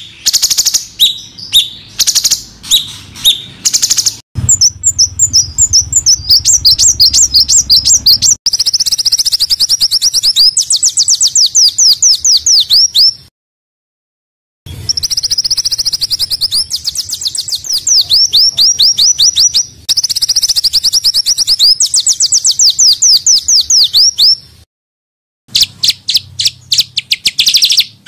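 Small songbird singing high, rapid-fire phrases: a few separate chirps, then long, fast runs of downward-sweeping notes repeated several times a second. Two short silent breaks interrupt the song. This is the dense, harsh 'tembakan' song that keepers play to train cage birds.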